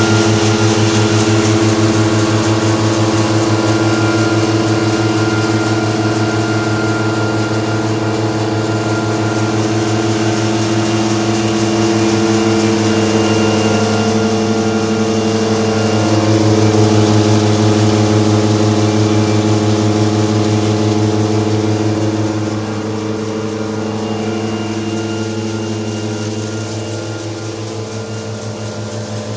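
Stone-separating hazelnut thresher running at work: a loud, steady mechanical drone with a constant hum and a rushing noise over it, easing slightly in level about three-quarters of the way through.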